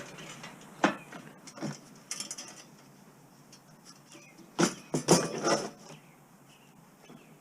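Metal scrap parts clinking and knocking together as they are handled: a few sharp knocks in the first two seconds, then a louder cluster of knocks around five seconds in.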